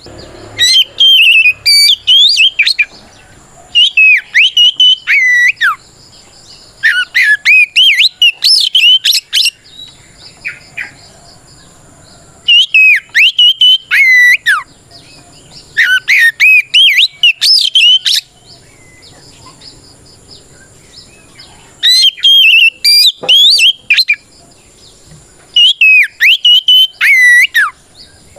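Oriental magpie-robin (kacer) singing loud, full challenging song: bursts of about two seconds of rapid, sliding whistled notes, seven in all, with short pauses between. This is the territorial song that calls out a rival.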